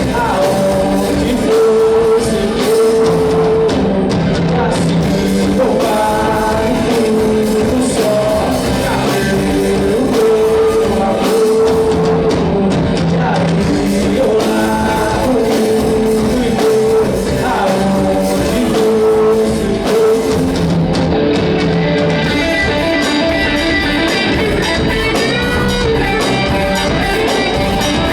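Live rock band playing: electric guitars, bass and drum kit with a male lead vocal. About twenty seconds in the singing drops out and the guitars carry on into an instrumental passage.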